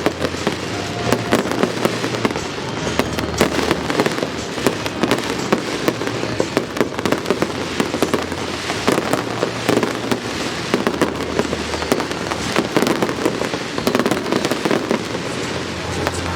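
A fireworks display going off continuously: a rapid, unbroken stream of bangs and crackling pops, many overlapping every second.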